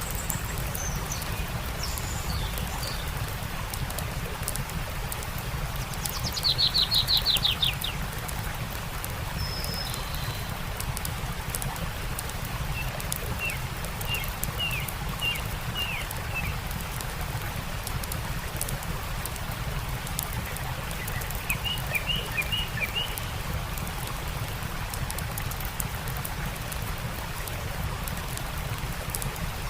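Songbirds calling over the steady rush of a stream, with a loud rapid trill about seven seconds in and two later runs of short chirps. Faint crackling of a campfire ticks throughout.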